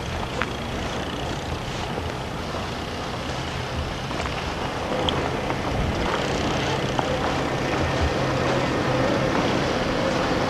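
A motor vehicle engine running with a steady low hum over road noise, growing gradually louder from about halfway through.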